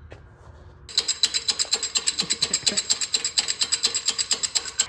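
A ratchet mechanism clicking rapidly and evenly, about ten clicks a second, starting about a second in and running for about four seconds.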